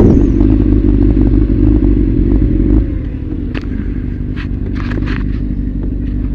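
Vehicle engine and road noise inside a moving car: a steady low drone that drops in level about three seconds in, with a few scattered clicks.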